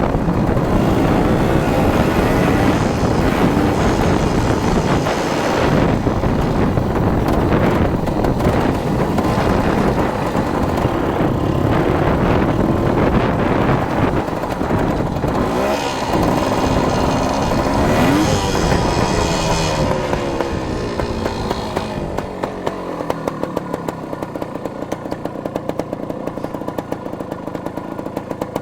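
Dirt bike engine running under riding, revving up and down, and growing quieter over the last few seconds.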